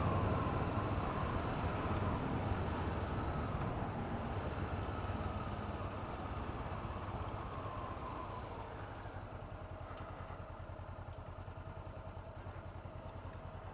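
2017 Honda CB500F parallel-twin engine running, mixed with wind noise on a helmet-mounted microphone while riding. It gets gradually quieter, and the low engine pulse becomes distinct near the end.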